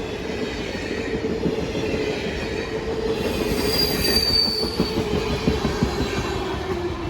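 Cars of a Norfolk Southern manifest train rolling past, with a steady wheel squeal and the knock of wheels over the rails. A brief higher-pitched squeal comes about four seconds in.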